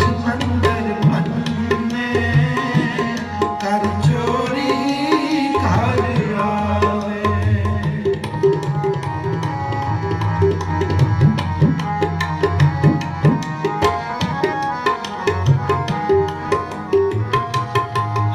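Tabla playing a continuous, busy rhythm under a harmonium's held melody: an instrumental interlude of Sikh kirtan between sung verses.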